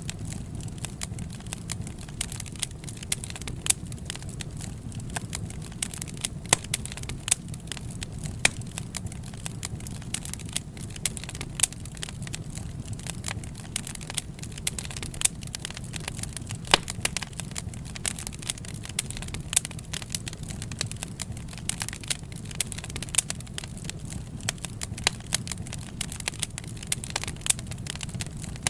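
Wood fire crackling: irregular sharp pops and snaps of burning wood over a steady low rumble of the flames.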